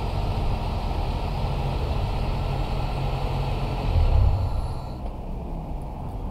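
Car engine idling steadily while it heats water through the radiator's heat exchanger. There is a thump about four seconds in, and a higher whir cuts off about a second later, leaving the low idle.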